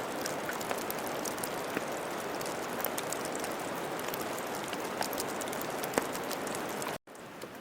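Steady rain falling, with many scattered drops ticking sharply. Near the end it cuts off abruptly and comes back quieter.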